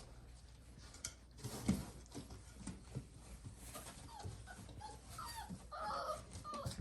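Five-week-old Labrador puppies scuffling, then one puppy whimpering in a run of short, high cries starting about four seconds in and going on to near the end.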